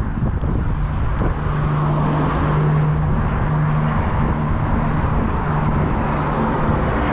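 Propeller aircraft's piston engine droning steadily overhead, a held hum with a slight rise in pitch near the end, over wind rumbling on the microphone.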